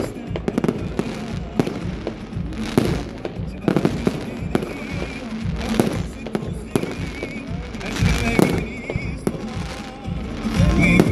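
Fireworks display: shells bursting in a string of sharp bangs at irregular intervals, with music playing underneath.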